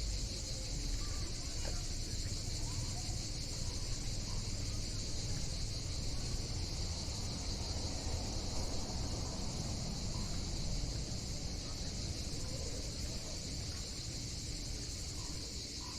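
Cicadas droning in a steady, unbroken chorus over a low rumble.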